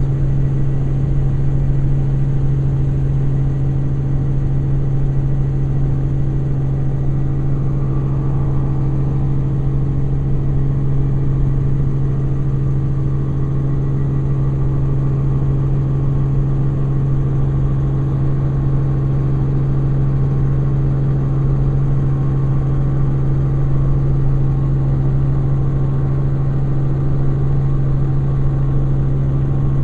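Helicopter in steady flight, heard from inside the cabin: a loud, unchanging drone with a strong low hum.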